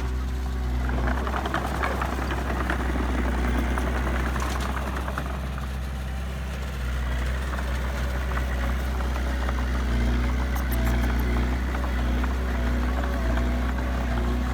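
Heavy diesel engine of earthmoving machinery running steadily with a deep hum, with a louder, rougher rush of noise for a few seconds about a second in.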